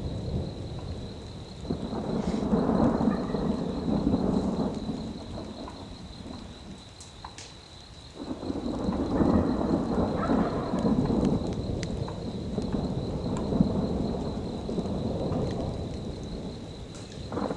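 Thunder rolling during a thunderstorm with rain: a long rumble about two seconds in, then a longer rolling peal from about eight seconds in. A thin steady high tone sits above it.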